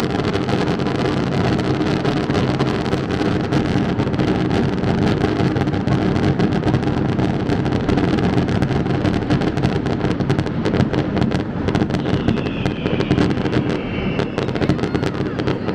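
Fireworks display going off continuously: a dense rattle of crackling bursts and bangs, with no let-up.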